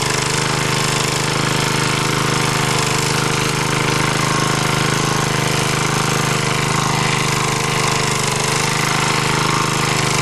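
MD3 walk-behind tractor's engine running steadily under load while rotary-tilling soil in first gear.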